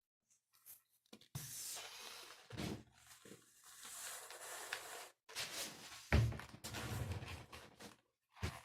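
Long twisting balloon being inflated: a breathy rush of air in several bursts, each a second or two long, separated by short pauses.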